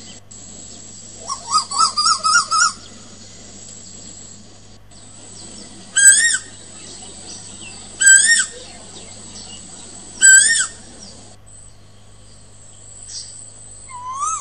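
Bird calls: a quick string of warbling notes, then three loud rising-and-falling calls about two seconds apart, and a fainter rising call near the end, over a steady high thin whine.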